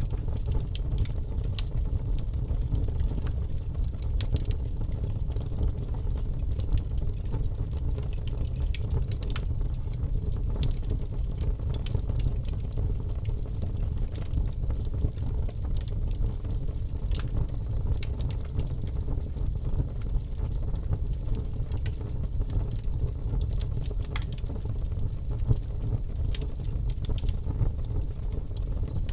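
Wood burning in a fireplace: a steady low rumble of the fire with irregular sharp crackles and pops from the burning logs throughout.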